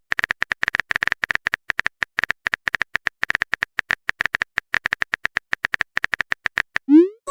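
Phone keyboard typing sound effect: a fast run of short clicks, more than ten a second, as a message is typed out. Near the end a short rising whoop starts, the message-sent sound.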